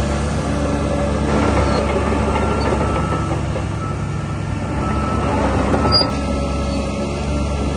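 Diesel engine of a DH17 C2 LGP bulldozer running steadily. The noise swells a little in the middle, and there is a short sharp click about six seconds in.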